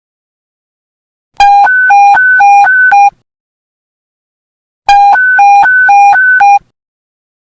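Police radio panic button alert: an electronic two-tone signal that alternates between a low and a high beep about four times a second. It sounds in two bursts of under two seconds each, with a gap of nearly two seconds between them, marking an officer's emergency activation.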